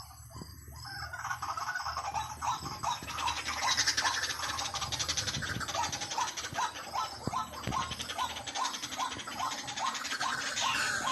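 White-breasted waterhen lure call: a short 'kwak' note repeated steadily about two to three times a second, over a dense, fast, high chattering.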